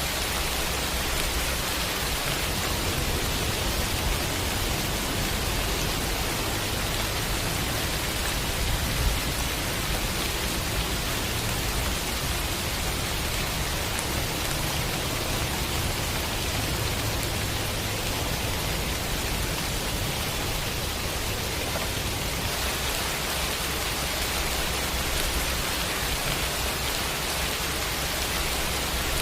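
Steady rainfall, a continuous even hiss with no breaks, over a low rumble underneath.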